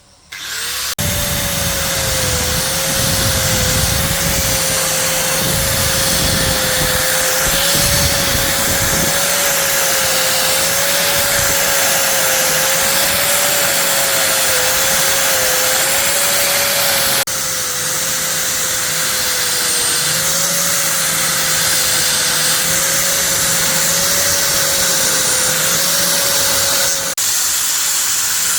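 A motor-driven workshop machine runs continuously with a steady, slightly wavering whine over a loud hiss. It starts abruptly about half a second in, and the sound shifts slightly twice, around the middle and near the end.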